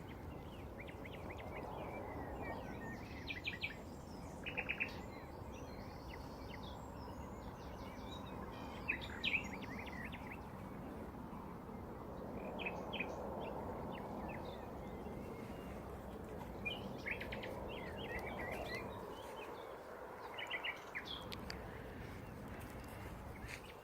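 Common nightingales singing: short phrases and runs of rapid repeated notes every few seconds, with pauses between, over a steady low background rumble.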